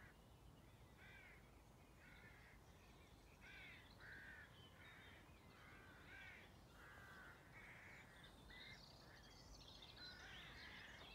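Faint bird calls: one bird gives a string of short, repeated calls, one or two a second. Higher twittering joins in from about nine seconds in.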